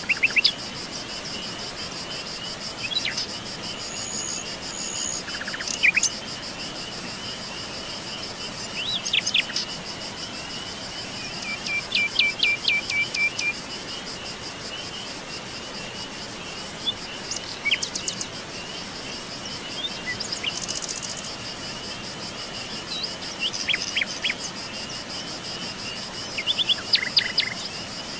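Forest birds giving scattered short chirps and whistles, one of them a rapid repeated trill about twelve seconds in. Under the birds runs a steady high-pitched chorus of insects trilling.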